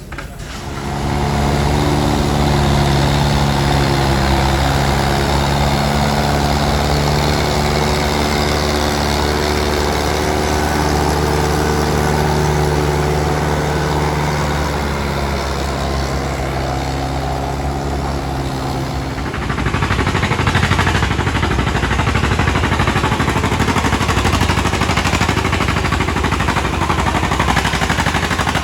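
Antique tractor engine running steadily at a constant pitch. About two-thirds of the way through it gets louder, with a rapid, rattling exhaust beat, as when throttled up for the pull.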